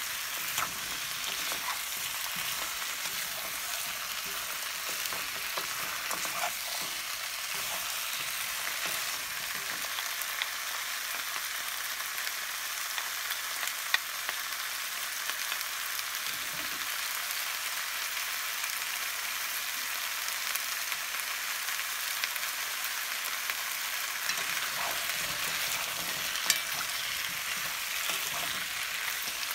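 Potato wedges, carrot, onion and zucchini sizzling in oil in a frying pan while being stirred with a wooden spatula: a steady frying hiss. There are a couple of sharp clicks, about halfway through and near the end.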